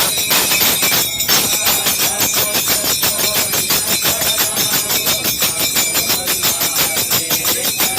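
Fast, steady percussion from a group singing devotional songs: sharp strikes several times a second, like claps or small cymbals, with faint singing under them.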